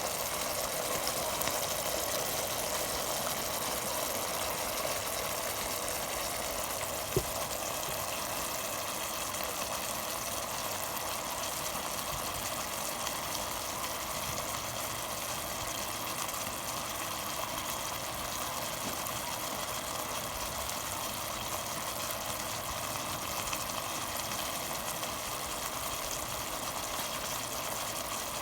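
Chicken adobo simmering in a pot as its sauce reduces and thickens, a steady noise throughout, with one sharp click about seven seconds in.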